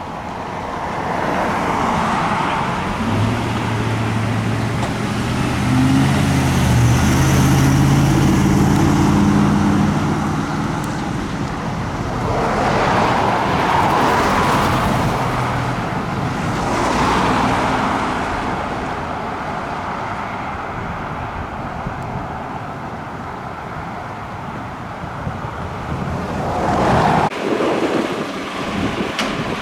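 Road traffic passing, several vehicles swelling up and fading away. A heavy vehicle's engine drones low and steady for several seconds in the first half.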